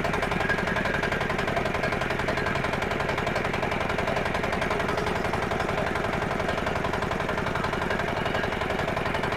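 A 50 hp crawler tractor's diesel engine running at a steady speed with a rapid even clatter while the machine turns in place.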